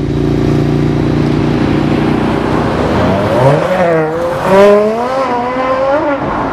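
Aston Martin One-77's 7.3-litre naturally aspirated V12 accelerating hard: a steady low engine note, then about three seconds in the pitch climbs sharply, dips briefly, climbs again and falls away near the end.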